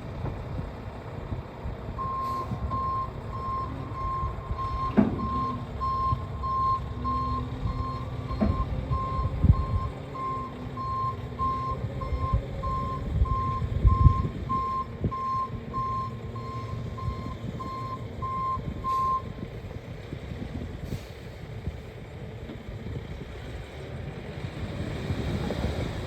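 Backup alarm of a 2018 Kenworth T880 tri-axle dump truck beeping about twice a second as it reverses, over its diesel engine running, with a few thumps. The beeping stops about three-quarters of the way through while the engine keeps running.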